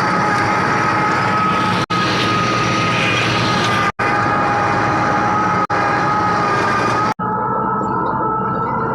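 Fiat 640 tractor's diesel engine running steadily with a rotavator, with a steady high whine over the engine noise. Brief drop-outs break it about every two seconds.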